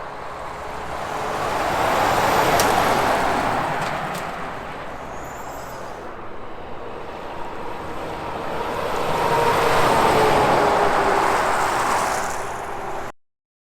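Two highway vehicles passing one after the other, each a swell of tyre and engine noise that rises and fades. The second carries a tone that drops slightly in pitch as it goes by. The sound cuts off suddenly near the end.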